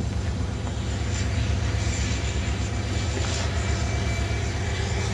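EMD SD70AC diesel-electric locomotive passing slowly, its diesel engine running with a steady, deep rumble.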